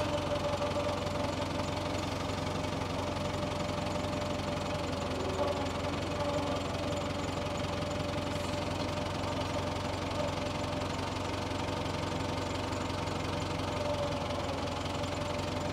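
Tractor engine running steadily, with a low hum and a thin steady tone over it.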